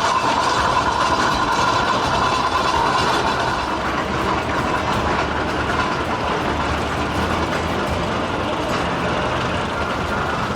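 Antique steam traction engine running, a steady mechanical din with a faint held tone in the first few seconds.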